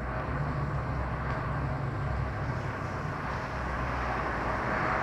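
Touchless automatic car wash machine running: a steady low motor hum under a hiss of spraying water, growing slightly louder toward the end.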